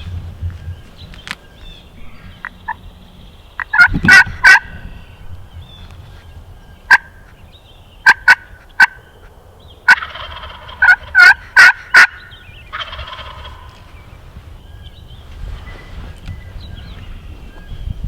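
Loud, sharp turkey clucks and cuts in short groups: three together about four seconds in, a few more around eight seconds, and a fast run of four near twelve seconds, with a rolling gobble mixed in around the later run.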